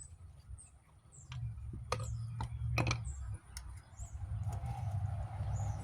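Scattered small clicks and knocks of hand tools and a pry bar working a rubber carburetor intake boot loose on a Yamaha V Star motorcycle, over a steady low hum. A vehicle going by starts to be heard near the end.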